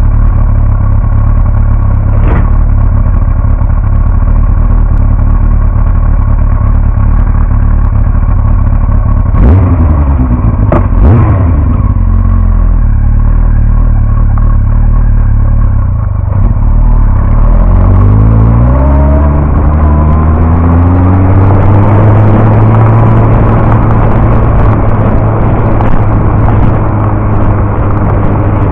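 Yamaha R1 inline-four sport bike engine, heard from a camera mounted on the bike: it runs steadily, gives two sharp clunks a little past the middle, then rises in pitch as the motorcycle pulls away and accelerates.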